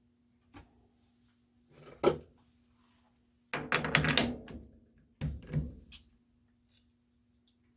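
Handling sounds in a machine shop: a light click, a sharp knock about two seconds in, then a clattering cluster of knocks about three and a half seconds in and another shorter one around five and a half seconds, over a faint steady hum.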